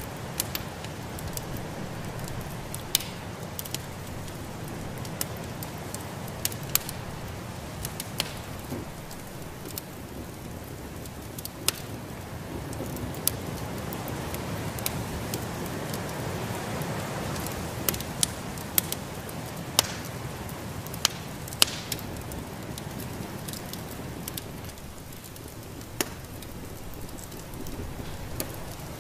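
Wood fire in a fireplace crackling, with sharp pops at irregular intervals over a steady low rushing noise that swells a little midway.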